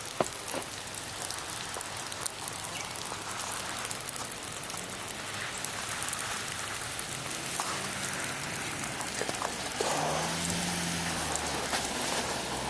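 Steady patter and dripping of water as snow and ice melt in a thaw. About ten seconds in, a low vehicle engine hum joins it.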